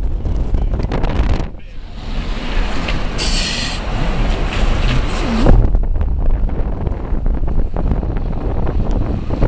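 Wind buffeting the camera microphone: a loud, heavy low rumble that eases briefly, with a short hiss about three seconds in.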